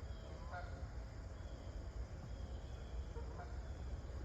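Faint insects chirping in short, high dashes about once a second, over a steady low rumble.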